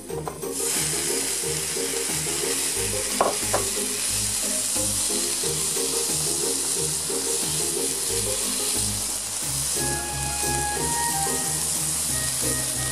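Sliced deer tongue and asparagus sizzling on a hot plate, starting with a rush about half a second in as they are tipped on, and going on steadily while they are stirred with chopsticks. Two sharp clicks come a little over three seconds in.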